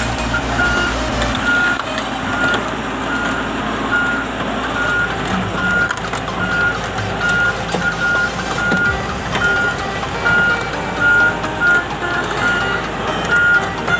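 Crawler crane travelling: its travel alarm beeps at one steady pitch, roughly every half second, over the running engine and the rolling steel tracks.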